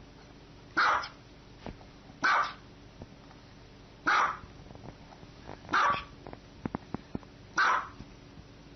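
A dog barking single, loud barks at a slow, even pace, five in all, about one every second and a half to two seconds, with a few faint clicks between the fourth and fifth.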